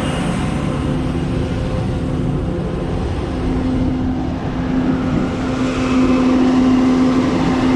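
Combine harvester running close by with a steady engine hum and drone, the hum growing louder about halfway through as the machine nears.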